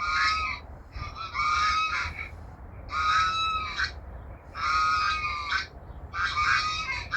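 Geese honking in a series of loud bouts of calls, about five in a row, each lasting around a second, with short pauses between them.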